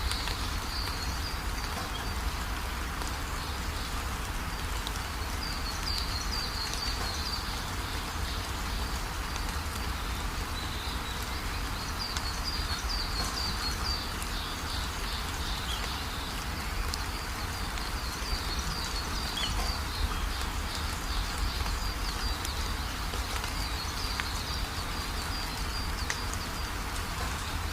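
Steady heavy rain, with bursts of high, rapid chirping trills from calling animals coming and going every few seconds.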